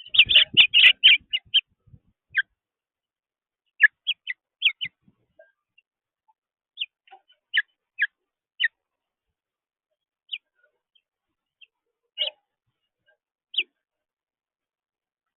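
Small birds chirping: a quick flurry of high chirps at the start, then single short chirps every second or two.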